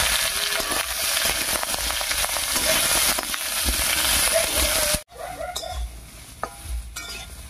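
Cut star fruit (kamranga) sizzling in hot mustard oil with tempering spices as it is stirred in a kadai with a metal spatula. The sizzle cuts off suddenly about five seconds in, leaving quieter sound with a few light clicks.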